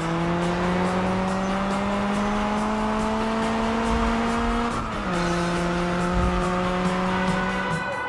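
Cartoon car engine sound effect accelerating: the engine note climbs steadily, drops sharply about five seconds in like a gear change, then holds steady.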